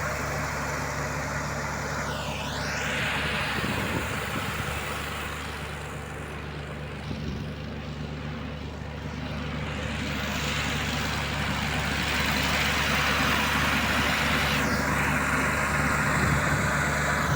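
Diesel tractor engines running steadily under heavy load, with a broad hiss that twice sweeps down and back up in pitch.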